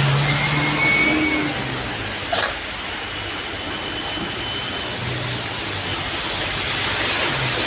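Truck engine running under a steady rushing noise, with a short click about two seconds in.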